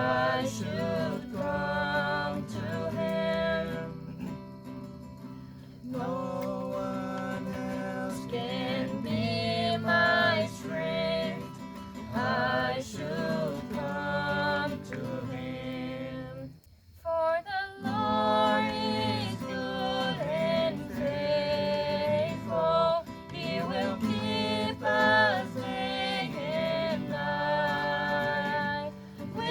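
A song sung to acoustic guitar accompaniment, with a short break in the sound about two-thirds of the way through.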